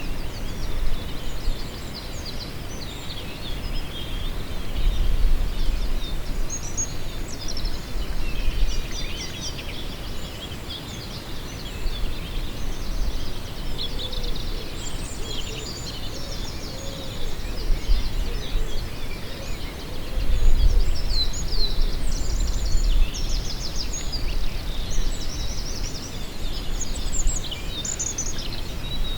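Many small birds chirping and trilling without pause. Gusts of wind rumble on the microphone twice, swelling about five seconds in and again about twenty seconds in.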